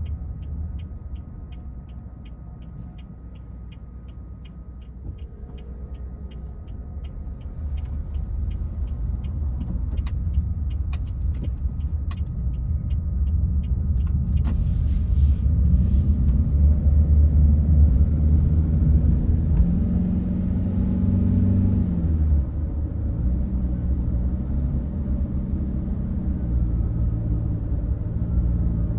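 Car driving, its engine and tyres making a steady low rumble. For the first half a turn-signal indicator ticks about twice a second, then stops. The engine then rises in pitch as the car accelerates and drops back briefly about 22 seconds in before climbing again.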